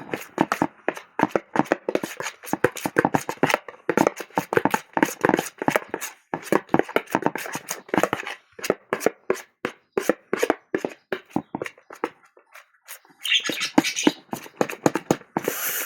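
Sticky homemade slime mixed with shaving foam being squeezed and kneaded by hand, making fast, irregular wet squelches and smacks. It pauses briefly near the end, then comes a short hiss.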